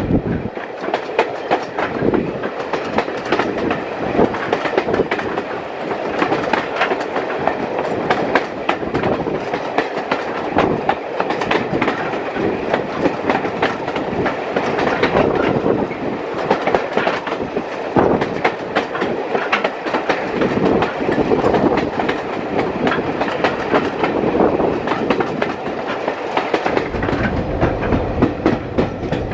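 British Rail Mk1 passenger coaches running along the line, their wheels clicking over the rail joints again and again over a steady running noise. The deep rumble grows louder near the end.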